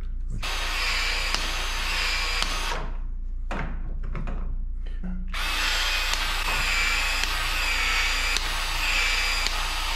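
Power PEX-A expansion tool running in two long runs, its motor pitch dipping and rising about once a second as the rotating head stretches the end of the pipe over and over.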